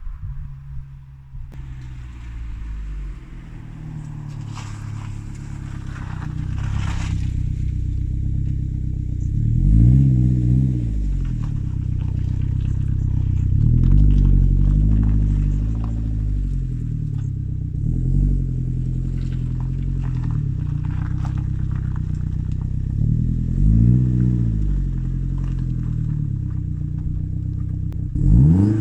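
1987 Saab 900 Turbo's turbocharged 2.0-litre four-cylinder running through a new 3-inch exhaust with the extra silencer removed. It idles steadily and is briefly revved up and back down about five times.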